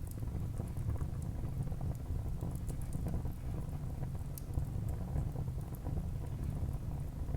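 Wood fire burning in a fireplace: a steady low rumble of flames with scattered small crackles and pops. One sharper pop comes a little past the middle.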